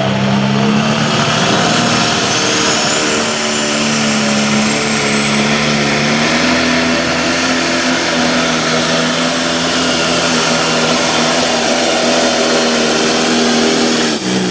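Super stock pulling tractor's engine held at full throttle under load as it drags the weight-transfer sled, a steady drone with a thin whistle rising in pitch over the first few seconds. The engine note drops away near the end.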